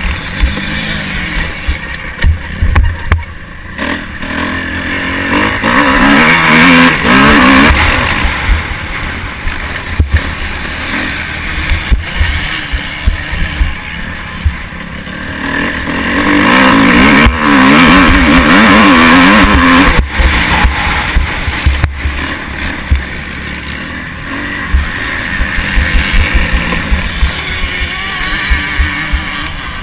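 Motocross motorcycle engine heard from an onboard camera, revving hard and dropping back again and again as the rider opens and closes the throttle, with two long full-throttle pulls. Short low knocks and wind buffet the microphone throughout.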